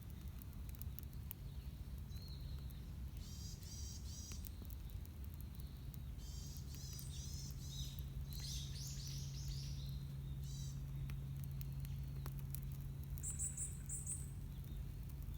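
Small birds chirping in short, quick bursts, repeated several times, over a steady low hum.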